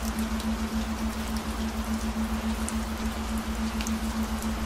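Steady rain with scattered sharp drop ticks, over a low, steady tone that wavers slightly in level.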